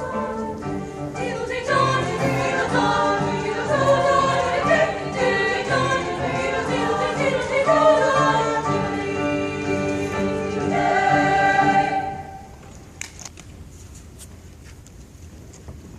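Choir singing, ending on a held chord about twelve seconds in; a few faint clicks follow in the quieter stretch.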